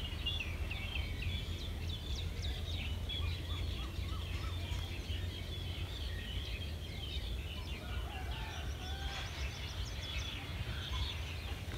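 Many small birds chirping in quick, short calls, over a steady low rumble.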